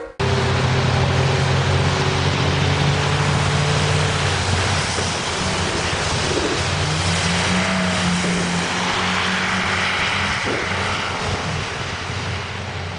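A heavy vehicle's engine running under a loud rushing noise, its pitch rising about six to seven seconds in; the sound fades out near the end.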